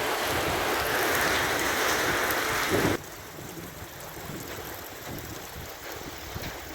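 A steady rush of water noise, loud for about three seconds, then cutting off suddenly to a quieter, softer rush of flowing water.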